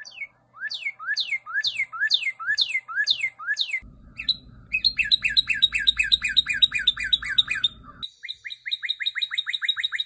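Northern cardinal song: about seven loud downslurred whistles, 'cheer-cheer-cheer', then about five seconds in a faster phrase of rapid repeated notes, 'purty-purty-purty', and near the end another quick run of short notes.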